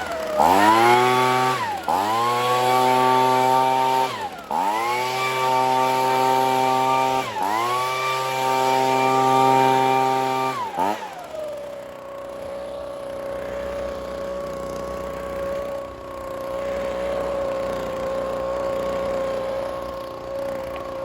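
Gas handheld leaf blower engine revved to full throttle four times, each burst lasting two to three seconds with a quick drop between. About eleven seconds in it falls back to a steady idle.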